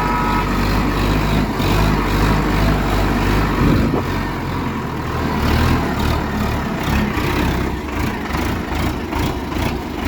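Tractor engine pulling hard under a heavy load of paddy as it climbs a slope. Its note shifts about four seconds in, with short knocks and rattles scattered through the second half.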